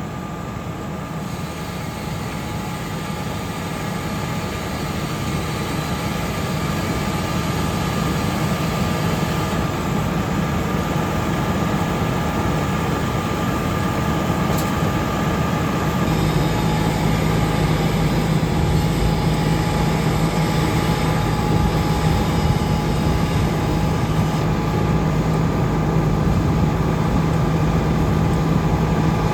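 Heavy diesel truck engine running steadily, with a faint steady whine above it. The low hum grows stronger just past halfway.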